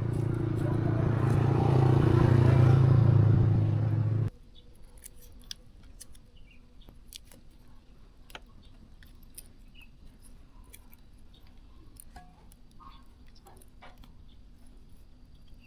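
A small engine running and growing louder, cut off suddenly about four seconds in. It is followed by scattered light clicks and taps of parts or tools being handled.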